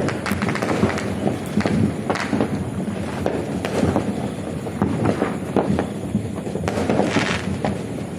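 Fireworks going off: a dense, continuous run of sharp pops and bangs.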